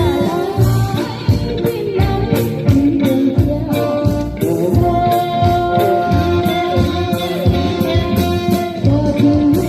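A band playing a song: singing over guitar, with a steady drum beat.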